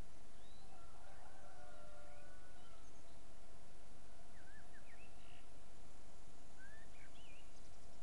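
Faint, scattered bird calls, short rising and falling whistles, a few at a time, over a steady background hiss with a faint constant tone.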